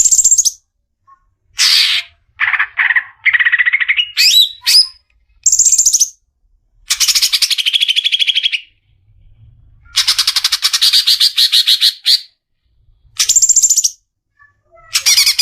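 Greater green leafbird (cucak ijo) singing loudly: a series of rapid, trilled phrases of a second or two each, broken by short pauses, with a few quick rising whistles about four seconds in.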